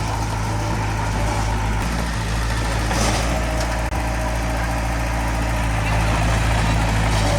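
Heavy-equipment diesel engine running steadily, with a faint whine joining about three seconds in.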